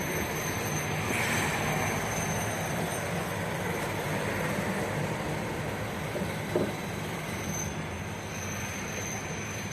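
71-619KT tram running along the track: a steady rumble of wheels and running gear with a thin high whine over it, and a single short knock about six and a half seconds in.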